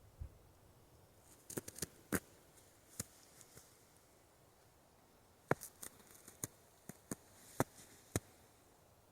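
Scattered sharp clicks and snaps, about a dozen, in two irregular clusters with a pause between them.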